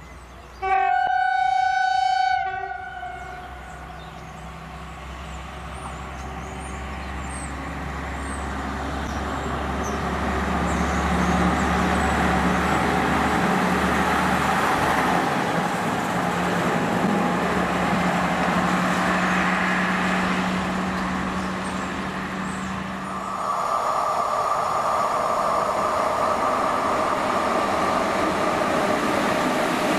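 Railway motor draisine (WM15A track maintenance vehicle) sounds one horn blast of about two seconds near the start. Its diesel engine then runs steadily, growing louder as it approaches and passes. About 23 s in, the sound switches to an EP07 electric locomotive passing with a train, with a steady whine over the noise of the running train.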